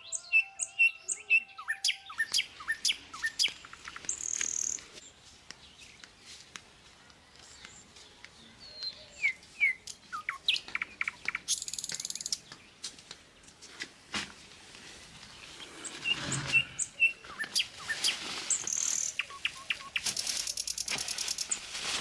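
Small birds chirping with short, repeated tweets. Near the end a woven plastic sack and a plastic bag rustle and crinkle as they are handled.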